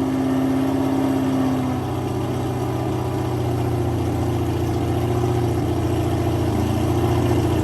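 Offshore powerboat engine running at idle just after a cold start, settling in the first couple of seconds and then idling steadily.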